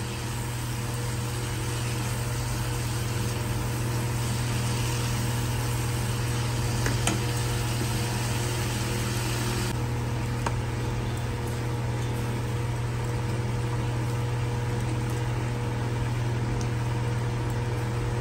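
Potatoes and long beans frying in a kadai, with a steady sizzle and the light scrape and tap of a spatula as they are stirred, over a steady low hum. The sizzle softens about ten seconds in.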